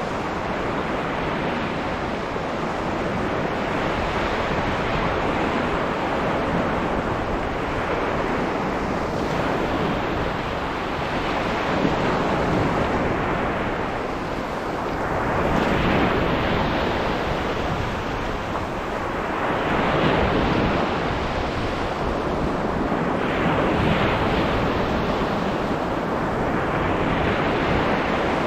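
Sea waves breaking and washing onto a sand beach, the surge swelling every few seconds, with wind buffeting the microphone.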